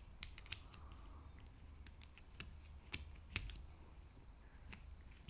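Children's puzzle pieces being handled and set down on a surface: a scatter of light clicks and taps, the sharpest about half a second in and twice around three seconds in.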